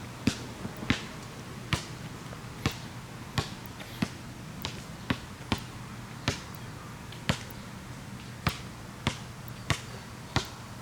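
A run of sharp, irregular clicks or knocks, about one or two a second, over a steady low hum.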